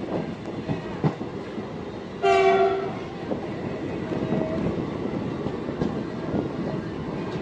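MEMU electric train running along the track, with wheels knocking over the rail joints. About two seconds in, a train horn gives one short blast.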